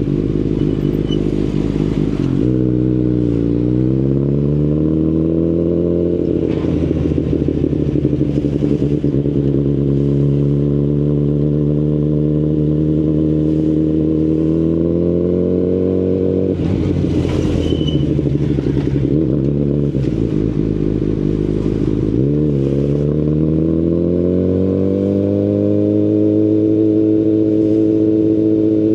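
2019 Kawasaki Ninja ZX-10RR inline-four running through an Akrapovic Evolution Line carbon full-system exhaust while riding. The engine note drops about two seconds in and then climbs, dips again about halfway through, and climbs once more in the last third before holding steady.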